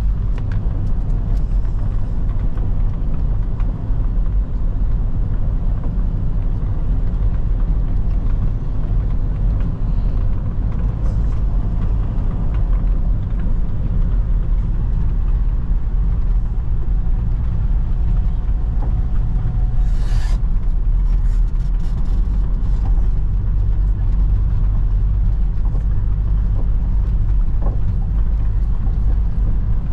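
Steady low rumble of a moving road vehicle's engine and tyres, with a brief hiss about twenty seconds in.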